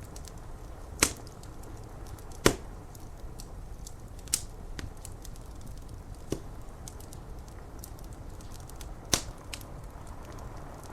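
Wood fire crackling, with about five sharp pops standing out among many faint ticks, over a steady hiss of rain.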